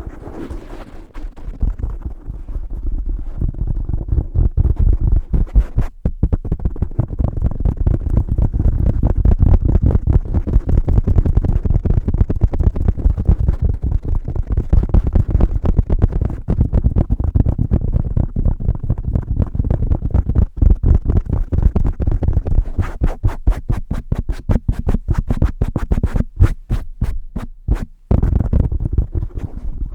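Fast, aggressive fingertip tapping on a microphone cover fitted over a Blue Yeti microphone: many dull, bassy taps a second right at the mic. Near the end the taps turn sharper and brighter for a few seconds.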